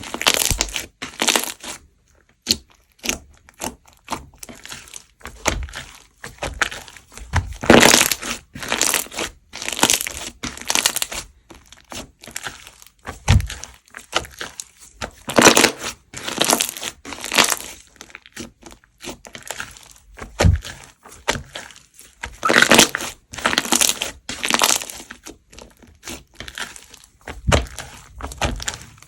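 Slime being squeezed, pressed and stretched by hand, in irregular bursts of noise every second or two with quieter handling between them.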